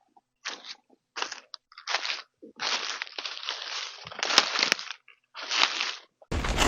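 Dry leaves crunching in a run of short, irregular crunches. A denser, steadier noise cuts in just before the end.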